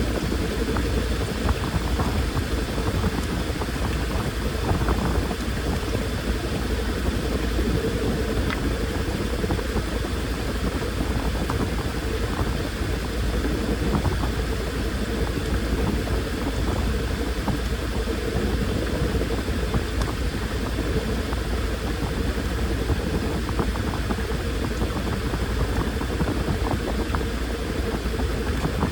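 Washing machine running a wash: water churning and sloshing in the drum over a steady motor hum and low rumble.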